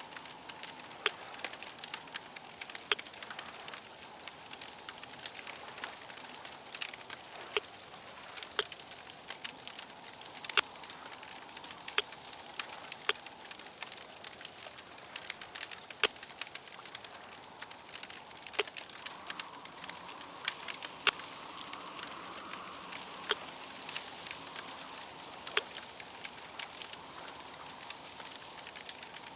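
Fire crackling, with irregular sharp pops and snaps over a steady hiss.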